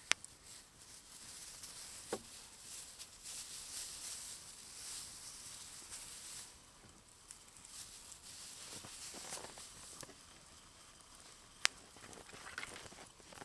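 Wrapping rustling and crinkling as it is handled and opened, with a few sharp clicks, the loudest about two seconds before the end.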